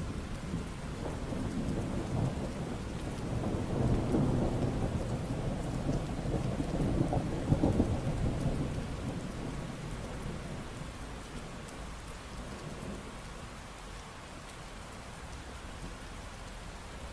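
Steady rain falling, with a long rumble of thunder that builds to a peak about halfway through and fades away, leaving only the rain.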